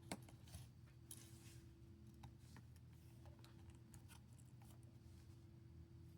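Near silence: faint small clicks and scrapes of hands working on a phone's parts, with a sharper click just after the start, over a steady low hum.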